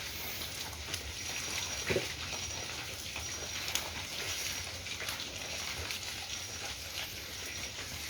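Steady rain falling, a continuous hiss with scattered small taps and clicks.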